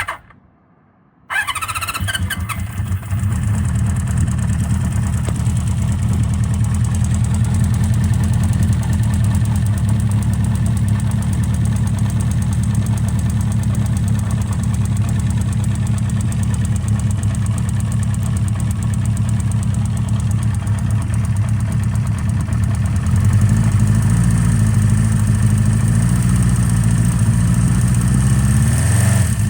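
A 1975 Honda CB400F's air-cooled inline-four fires and catches about a second in on a cold start with the choke on full, then runs steadily at a fast idle. A little over twenty seconds in, the running note shifts and gets slightly louder.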